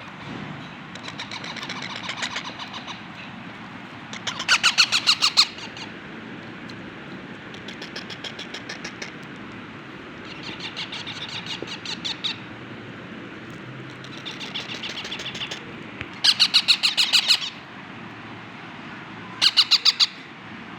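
Parrot chicks giving rapid, pulsed begging calls while being hand-fed, in bursts of about a second each: several soft runs and three loud ones, around four seconds in, near the end, and just before the end.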